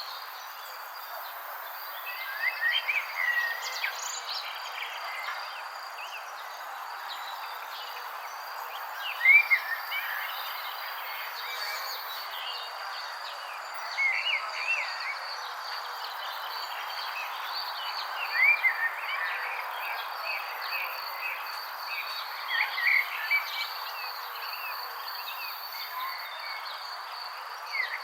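Outdoor nature ambience: a steady high insect trill over a constant hiss, with short looping chirp phrases every four to five seconds that stand out as the loudest sounds.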